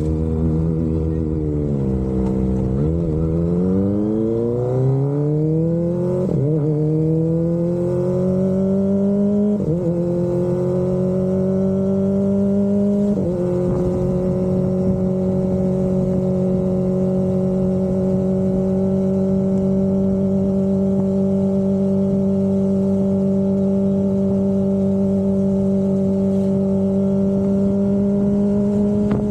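Kawasaki Ninja ZX-25R's inline-four engine through an Austinracing aftermarket exhaust, its note dipping, then climbing in stages with three short breaks, like upshifts under acceleration, before holding a steady engine speed for the second half.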